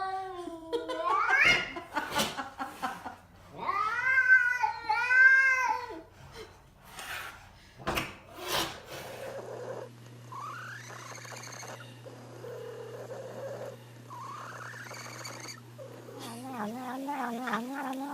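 A domestic cat making a series of drawn-out, warbling yowls, the loudest in the first six seconds. Fainter calls follow, then a lower, rapidly pulsing warble near the end, with a couple of sharp knocks in the middle.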